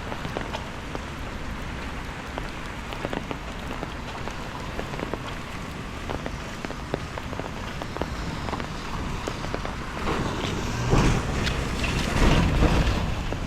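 Steady rain falling, with many small, close drop hits. Near the end a louder low rumble rises and falls over it.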